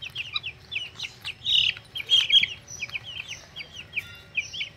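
Birds chirping: a dense run of short, high chirps, several a second and often overlapping.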